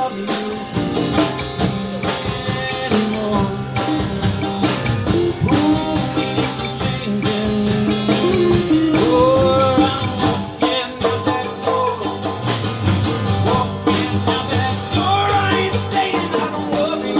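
Live blues band playing a loud, steady groove, with guitar over bass and drums.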